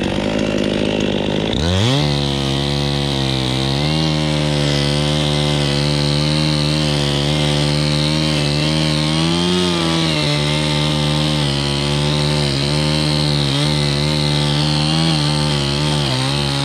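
Chainsaw revved up about two seconds in and held at high throttle, cutting into oak wood, its pitch wavering slightly under the load, then let off near the end.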